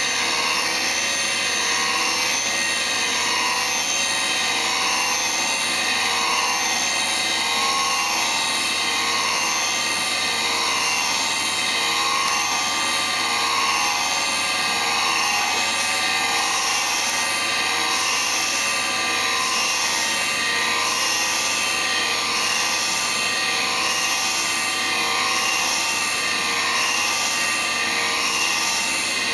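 Hauser jig grinder's high-speed grinding spindle running steadily with a high whine. From about halfway through, the upper part of the sound pulses about once a second.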